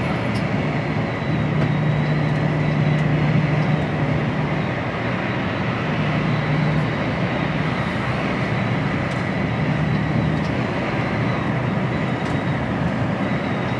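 HGV lorry on the move heard from inside the cab: a steady low diesel engine drone under continuous road and wind noise.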